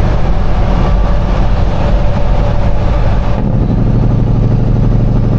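Caterpillar diesel engine of a Peterbilt semi truck running down the highway. About three and a half seconds in, the sound changes to a steady, rapid low pulsing as the jake (engine compression) brake comes on.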